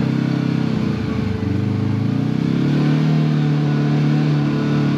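Side-by-side UTV engine running on the trail. It eases off about a second in, then picks up again and holds a steady pull.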